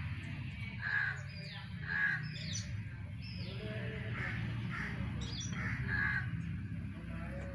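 Birds calling: a short call repeated about six times, roughly a second apart, with higher, falling chirps between, over a steady low hum.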